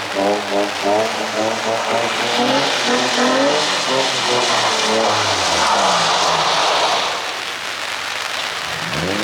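Car engine revving hard through a drift on a wet track. The revs bounce up and down rapidly in the first second or so, then hold high and drop away about seven seconds in. A rushing hiss of tyres on wet pavement rises near the end of the high revs.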